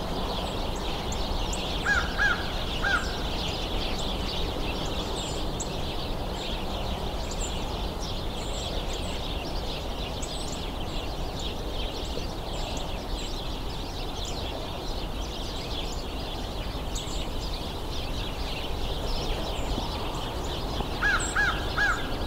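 American crow cawing in two short series of about four caws each, one a couple of seconds in and one near the end. Throughout, a flock of birds keeps up a continuous high chatter.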